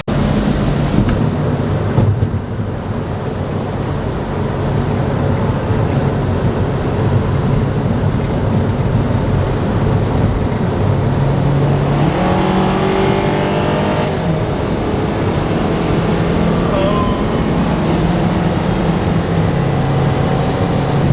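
Car engine running steadily while driving, with road noise; about twelve seconds in, the pitch climbs for a couple of seconds as the car accelerates.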